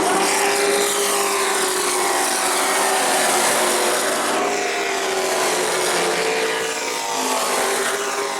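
Several race trucks' engines running at racing speed on a short oval track, their pitch rising and falling as they pass.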